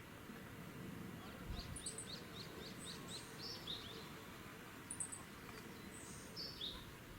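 Outdoor birdsong: a songbird repeats a phrase about every three seconds, with high chirps and, in the first half, a quick run of short descending notes, over a steady background hum of environmental noise.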